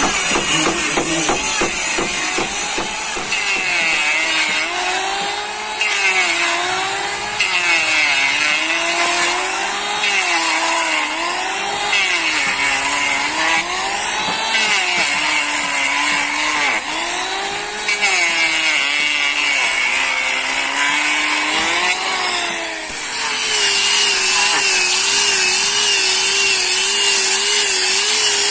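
An electric power tool running under load. Its motor pitch dips and recovers again and again as it bites, then holds steadier for the last few seconds.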